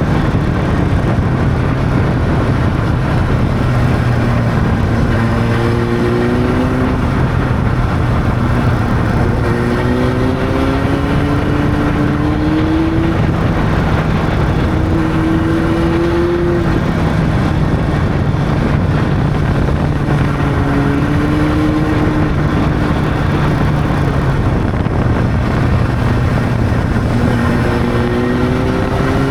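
Honda CB600's inline-four engine under way, its pitch climbing several times and dropping back between climbs as it pulls through the gears, over steady wind and road noise.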